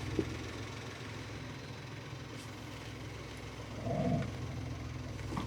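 Suzuki Jimny JB64's small three-cylinder turbo engine idling steadily, with a brief click just after the start and a short, higher-pitched noise about four seconds in.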